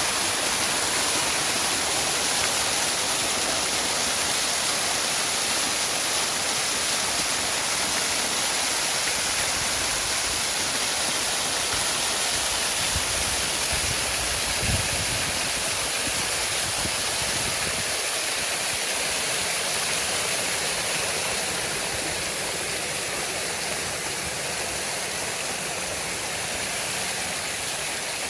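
Waterfall rushing: a steady, even hiss of falling water, with a brief low thump about halfway through.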